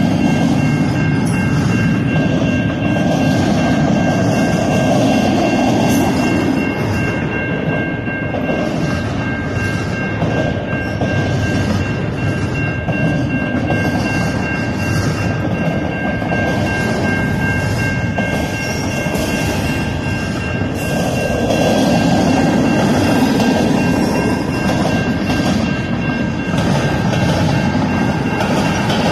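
Freight train cars rolling slowly past a grade crossing, a steady rumble with clacking of wheels over the rail joints. Over it the crossing signal's bell rings without a break.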